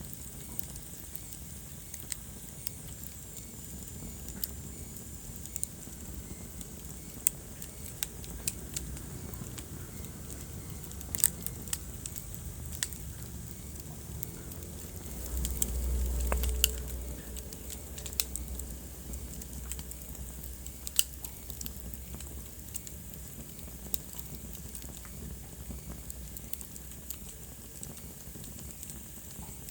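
Wood fire crackling in a fireplace: scattered sharp pops and snaps over a low, steady rumble of burning, which swells louder for a couple of seconds about halfway through.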